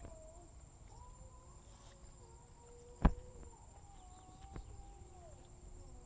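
Insects calling in one steady high-pitched whine, with faint wavering calls lower down and a single sharp knock about three seconds in.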